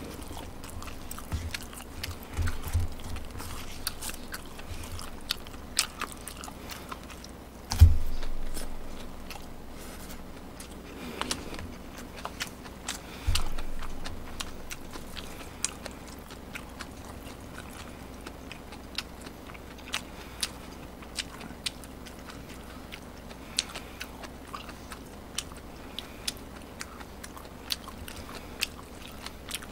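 A person chewing food close to a microphone, with many small wet mouth clicks throughout. Two louder thumps come about eight and thirteen seconds in.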